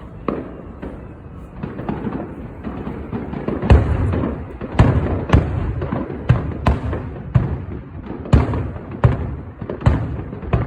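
Aerial fireworks shells bursting. Crackling comes first, then a quick run of sharp booms starts a few seconds in, some only a fraction of a second apart.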